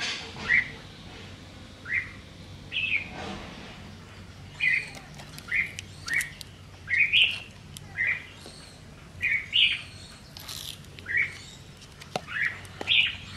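Small birds chirping, short loud chirps repeated irregularly about once a second, with a few sharp clicks near the end.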